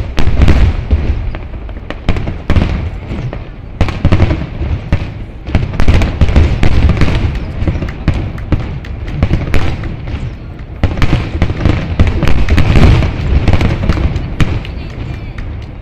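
Aerial fireworks in a grand-finale barrage: rapid, overlapping shell bursts and booms, one hard burst right at the start, then waves of heavier volleys, the densest about six seconds and eleven to thirteen seconds in.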